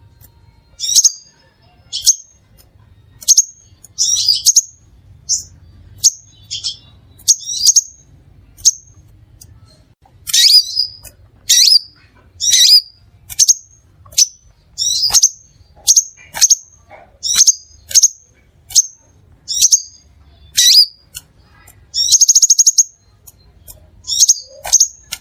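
Crimson sunbird singing: a steady series of short, sharp, high-pitched chirps about one or two a second, with a fast buzzy trill near the end.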